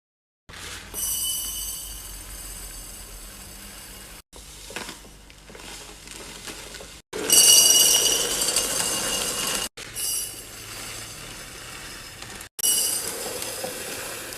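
Glass jars and bottles clinking and ringing as they are set into a fridge and handled, in several short separate bursts.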